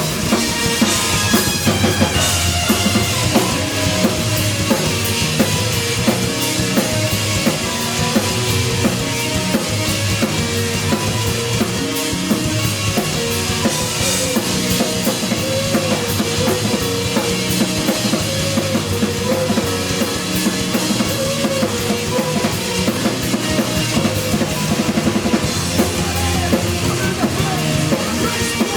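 Live rock band playing loud and steady with no vocals: a driving drum kit of bass drum and snare, under bass and a wavering melodic line.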